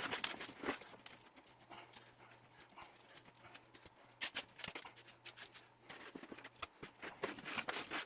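Faint, scattered scrapes and rustles of a shovel working loose dirt back into a trench in a concrete floor, with a cluster of louder scrapes about four seconds in and again near the end.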